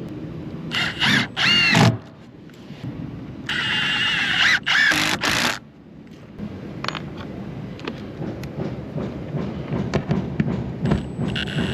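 A power tool running in two bursts, the first about a second long and the second about two seconds, its pitch rising and falling, over a steady clatter and knocking of work.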